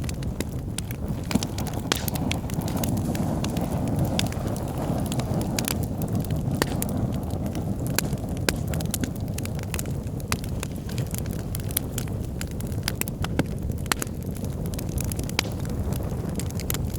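Wood fire burning in a fireplace: a steady low rumble of flames, with many sharp, irregular crackles and pops from the burning logs.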